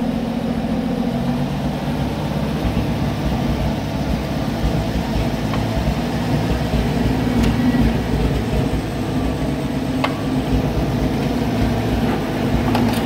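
Oliver 770 tractor engine running steadily at a low, even speed.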